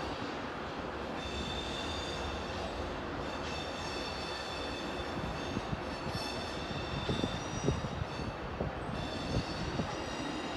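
A train moving slowly over the station tracks with a steady rumble. High squealing tones come and go, and a few short knocks are heard in the second half.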